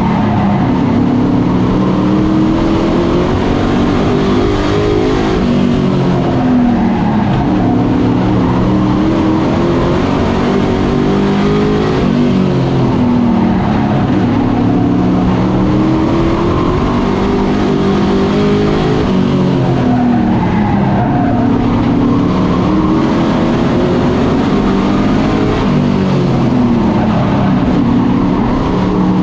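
Several race truck engines running together on an oval track, their pitch rising under acceleration and falling as they lift, in repeated waves every few seconds as the pack laps.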